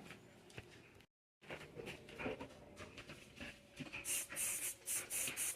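Household cleaning on a hard kitchen surface: faint rustling and scraping, then from about four seconds in a run of quick, short hissing strokes, about three a second, like scrubbing.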